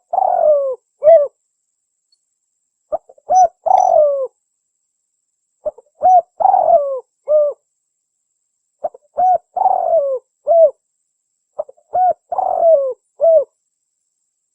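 Spotted dove (tekukur) cooing: a short phrase of three or four coos, repeated about every three seconds. Each phrase has a longer, falling coo in the middle.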